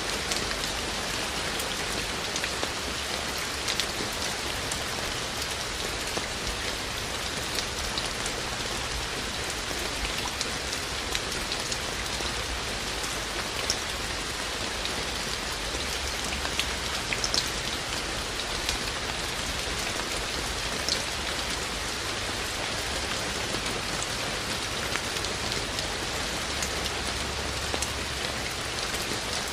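Steady rain falling, a constant hiss with scattered individual drops ticking sharply on nearby surfaces.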